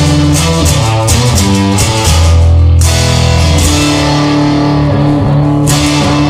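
Rock music with no singing: guitar and bass guitar over drums with cymbals.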